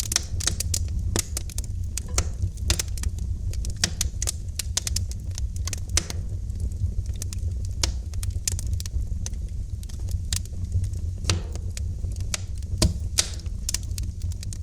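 Wood fire crackling in a fireplace: sharp, irregular pops and snaps over a steady low rumble of the burning fire.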